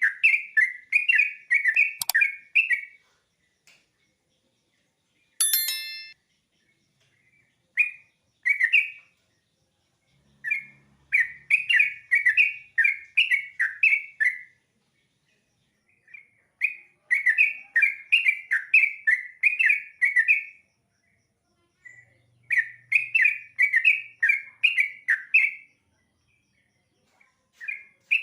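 Yellow-vented bulbul (trucukan) singing in lively bouts of quick, bubbly chirping notes, each bout a few seconds long with short pauses between. A brief squeak about five and a half seconds in.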